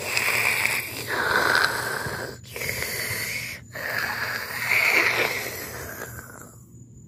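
Noo Noo, the Teletubbies' vacuum-cleaner character, making its breathy sucking, wheezing noises: about five hissing pulls in a row whose tone shifts up and down, fading out near the end.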